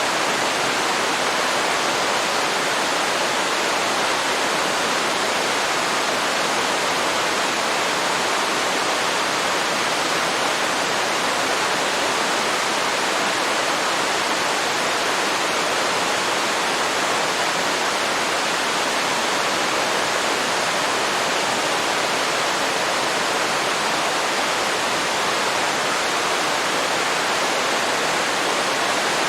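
Waterfall: a steady, even rush of falling water, with no breaks or changes.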